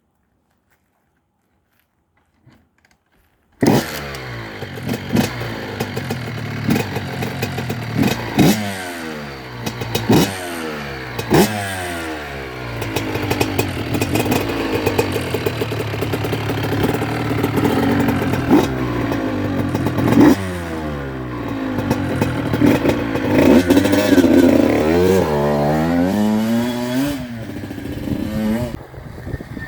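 Honda CR85's small single-cylinder two-stroke engine, silent at first and then suddenly running a few seconds in. It is blipped repeatedly, the revs shooting up and falling back about every one and a half seconds, then held steadier, then wavering up and down before dropping back near the end.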